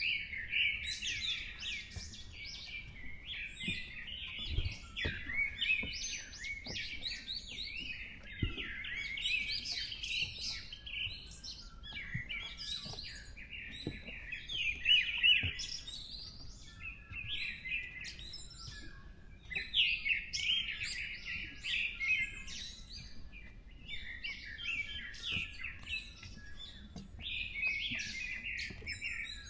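Several birds singing and chirping at once: a dense, unbroken chorus of high chirps and trills.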